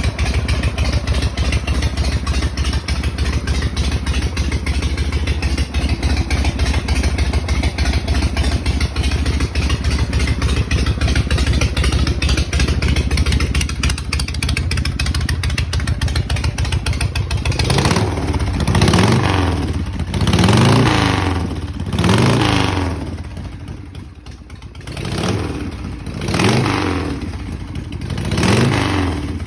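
1983 Harley-Davidson Shovelhead V-twin engine idling steadily after a cold start, then blipped with the throttle about six times in the second half, each rev rising and falling back to idle.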